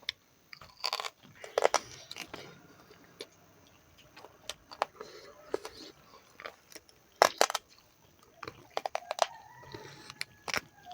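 Close-up mouth sounds of a person chewing and biting into pork leg, with irregular sharp crunches and smacks.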